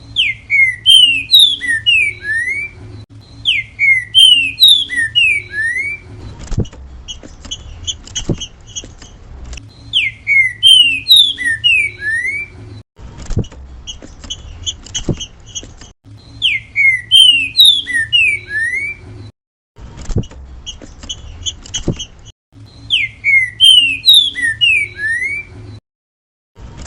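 Green-winged saltator (trinca-ferro) singing its 'grego mole boi' song: five loud phrases of quick descending whistled notes, a few seconds apart. Softer rapid chattering fills the pauses, over a steady low hum.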